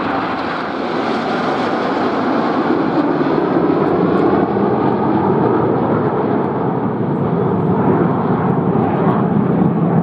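Fixed-wing aircraft flying a display pass: a continuous engine roar that grows a little louder over the first few seconds and then holds steady.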